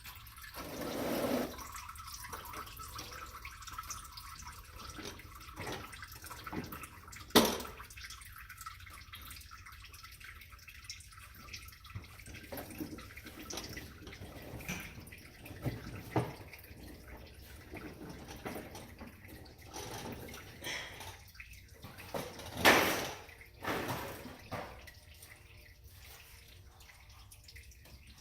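Warm engine oil draining from a 1994 Dodge Ram 1500's oil pan into a catch pan, a steady faint splashing and dripping. A sharp knock comes about seven seconds in and another, louder one near twenty-three seconds.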